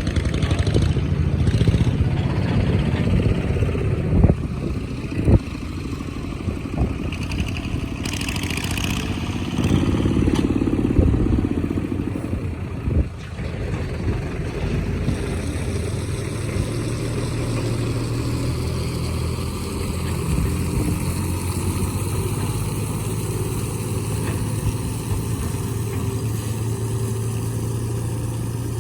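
Excavator's diesel engine running steadily, with a few sharp knocks in the first several seconds and a louder, working stretch a little before the middle.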